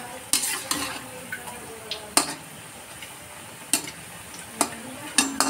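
Lauki kofta balls frying in hot oil with a low steady sizzle, and several sharp clinks of a utensil against the pan.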